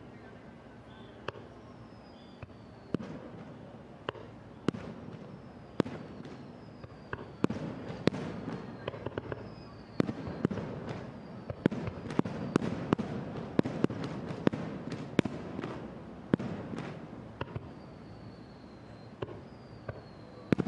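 Fireworks display: aerial shells bursting in a rapid string of sharp bangs over a rolling low rumble, thickest in the middle stretch, with faint falling whistles high above.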